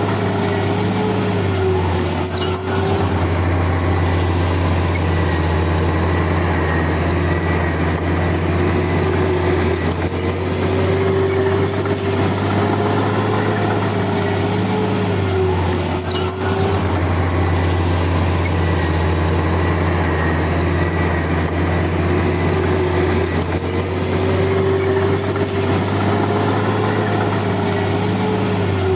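Heavy diesel engine of a bulldozer running steadily with a deep drone. A higher whine wavers in pitch over it, swelling and fading in cycles of roughly ten to thirteen seconds.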